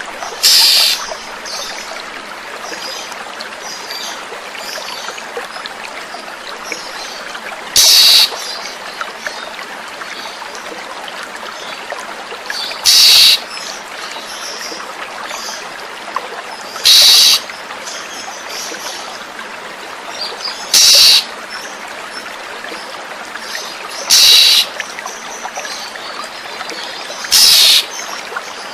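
Oriental magpie-robin (kacer) giving seven short, loud calls every few seconds over a steady sound of flowing water, with faint bird chirps between.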